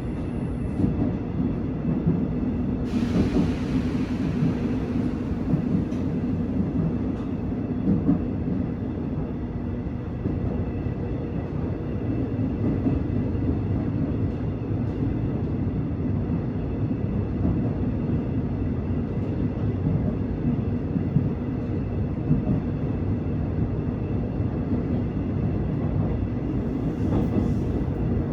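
A train running on the track: a steady low rumble, with a brief hiss about three seconds in.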